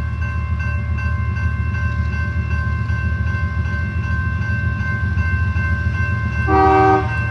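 Train passing with a steady low diesel locomotive rumble, and a short train horn blast about six and a half seconds in.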